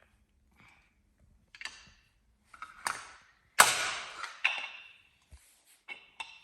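Plastic Lego Duplo bricks knocking and clacking together in a handful of separate hits, the loudest about three and a half seconds in.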